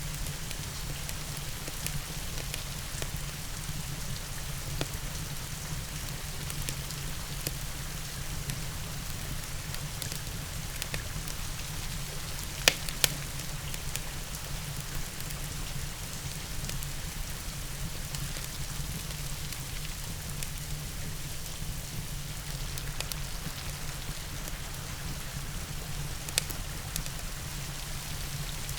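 Steady rain falling, with a few sharp fireplace crackles: two close together midway through and one near the end.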